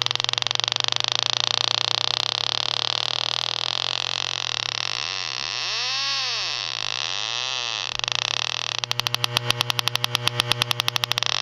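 Electronic refrigerant leak detector sounding over a steady hiss and low hum. A tone rises and falls about six seconds in and again shortly after. Then, about nine seconds in, it breaks into a rapid string of beeps, the alarm that it has picked up leaking R-22 refrigerant.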